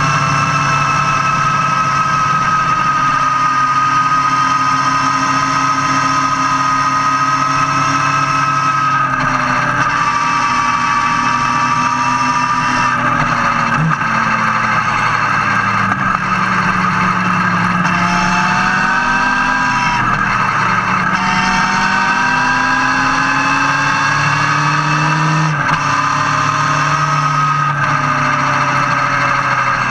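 Motorcycle engine running under way, heard close to the engine and exhaust. Its note falls slowly, then rises and falls with the throttle, with a few sudden drops in pitch in the second half like gear changes. Underneath is a steady rush of wind and road noise.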